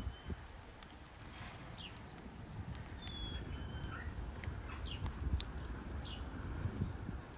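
Small birds chirping, short high calls scattered every second or so, over a low steady rumble.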